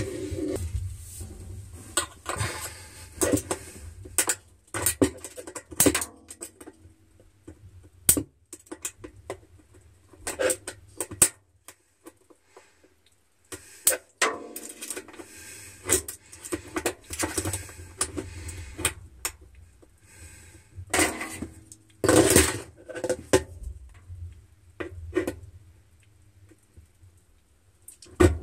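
Irregular metallic clicks, taps and scraping, with short pauses, from small screwdrivers, a knife and needle-nose pliers prying at a coin stuck in the groove between an LG Wave Force washer's spinning bottom and its tub wall.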